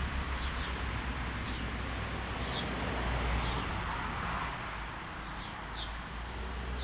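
A small bird giving short, high cheeps every second or so, over a steady background hiss and low rumble.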